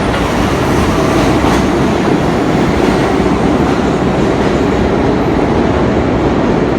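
R42 New York City subway car running along the track, a steady noise of wheels and car body heard from on board.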